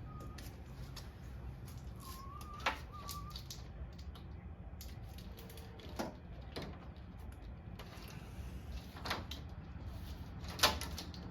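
Scattered sharp clicks and knocks of snowplow wiring connectors being handled and plugged together, four in all, the loudest near the end, over a low steady hum. A faint wavering chirp sounds about two to three seconds in.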